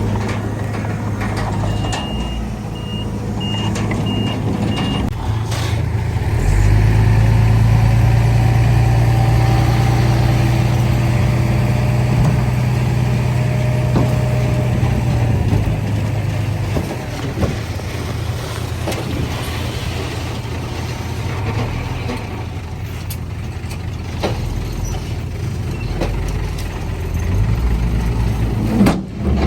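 Heavy diesel earthmoving machinery running, with a reversing alarm beeping about five times a couple of seconds in. The engine works harder and louder for several seconds in the middle, then eases back.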